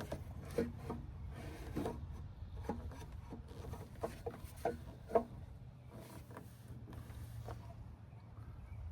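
Scattered light knocks, clicks and rubbing as the reusable air filter is handled and seated back in the truck's air-filter housing, with the loudest knock about five seconds in. A steady low hum runs underneath.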